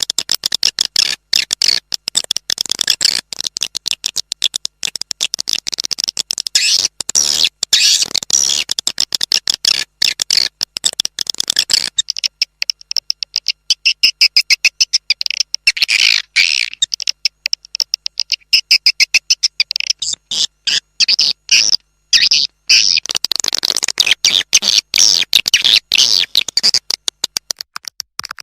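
Recorded swiftlet calls used as a lure to draw swiftlets to a nesting house: dense, rapid, high-pitched twittering chirps and clicks that run on without a break. About twelve seconds in, the lower part of the sound drops away and the chirps turn thinner and more trilling.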